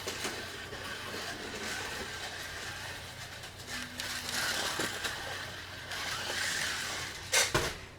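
Slot car running laps on a slot track: its small electric motor whines and the car rattles along the slot, the sound swelling and fading as it goes round. Near the end come a few loud clacks as the car comes out of the slot and tips up on its side.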